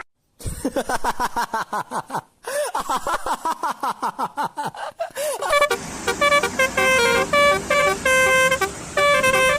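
Bus 'telolet' multi-tone musical air horn. After a brief silence it plays fast warbling, bending notes, then a tune of held notes stepping up and down.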